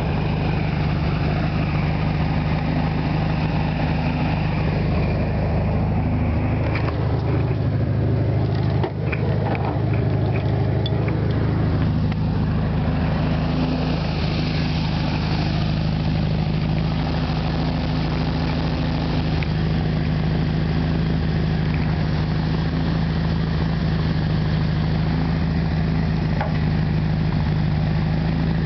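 1973 Volkswagen Super Beetle's rebuilt 1600cc air-cooled flat-four idling steadily just after a cold start, its carburetor freshly cleaned and set to idle. Loudness dips briefly about nine seconds in.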